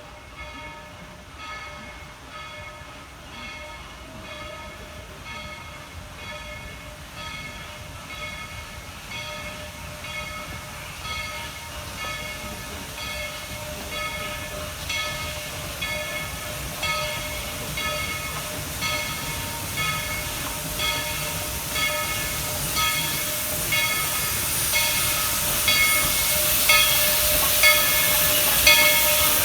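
Narrow-gauge steam train approaching, with a regular beat about once a second that grows steadily louder.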